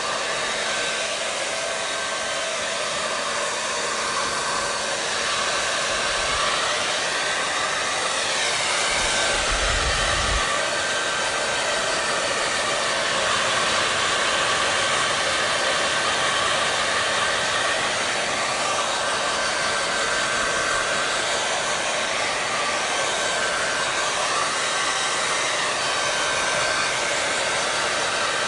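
Hair dryer running steadily: a continuous rush of blown air with a faint motor whine. The hiss shifts slowly up and down in pitch every few seconds, and there is a brief low rumble about ten seconds in.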